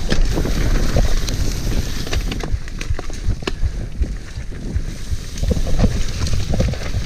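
Mountain bike riding over a muddy, rough trail: a steady low rumble of wind buffeting the camera microphone, with many sharp clicks and knocks as the bike rattles over the ground.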